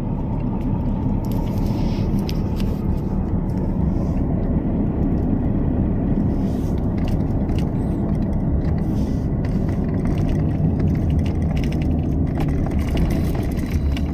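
A vehicle driving: a steady low rumble of engine and road noise, with light rattles and clicks over it.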